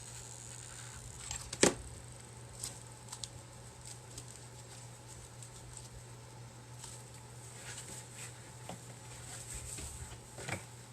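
Handling noises of rope being wrapped around a clay pot and hot-glued: scattered light clicks and rustles, with one sharper knock about a second and a half in.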